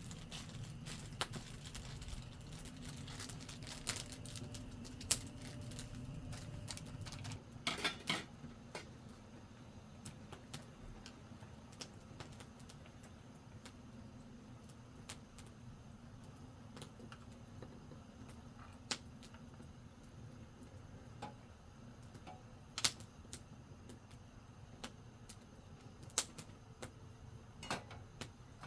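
Campfire crackling: scattered sharp pops and snaps, with a quick cluster about eight seconds in, over a low steady rumble that eases off just before it.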